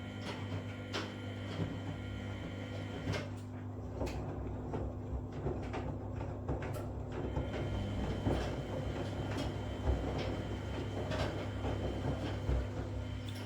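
Front-loading washing machines mid-wash: a steady motor hum with irregular knocks and clicks as the drum turns the load.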